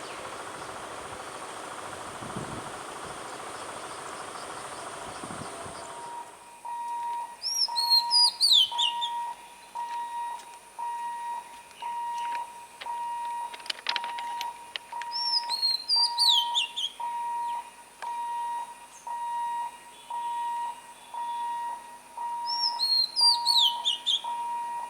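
Level-crossing warning beeper sounding a steady single-tone beep about once a second. A bird's short, high, falling whistled phrase repeats three times, about seven seconds apart. Before the beeping, the first six seconds hold a steady noisy rumble that cuts off suddenly.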